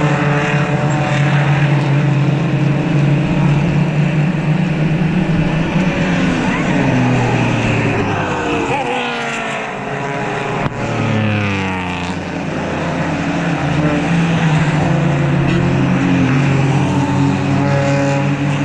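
Several race cars' engines running at speed past the track, a steady stream of engine notes with pitch sweeping up and down as cars go by and shift. There is a brief lull about ten seconds in.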